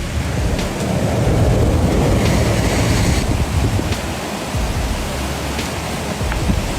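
Floodwater rushing, a loud, steady noise of churning water.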